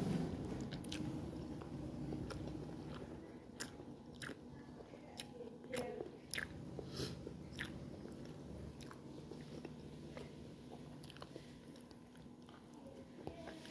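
Close-up chewing and biting of fried tofu and soup vegetables, with wet mouth sounds and scattered sharp clicks.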